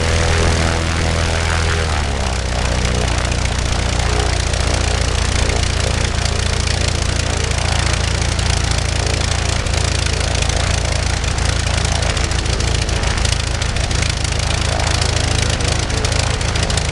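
Global half-VW two-cylinder, four-stroke boxer engine turning the propeller of a light aircraft. About two seconds in its pitch drops as the engine slows, and it then runs steadily at the lower speed.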